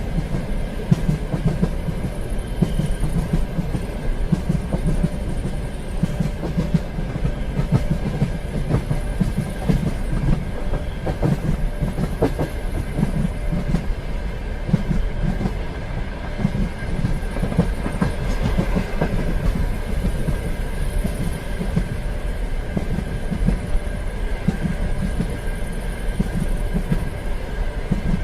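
Train running on rails: a steady, continuous rumble with the clickety-clack of wheels over the track and a faint steady whine above it.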